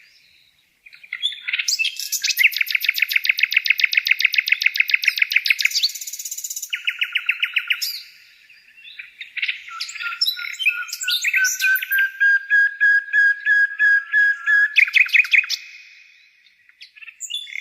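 A songbird singing: long, fast trills of repeated notes, a short break about eight seconds in, then a varied phrase that includes a long, steady whistled note.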